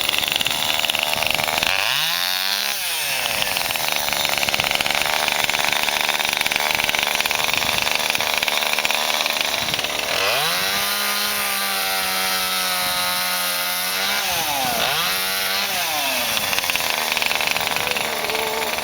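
Two-stroke chainsaw running hard while cutting up a fallen peppermint tree. Its engine note sags and recovers about two seconds in, then holds lower and steady for several seconds under load from about ten seconds in, before climbing and dipping again.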